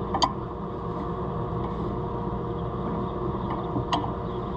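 Two sharp metal clinks of a wrench on a jam nut, about a quarter second in and again near the end, over a steady mechanical hum.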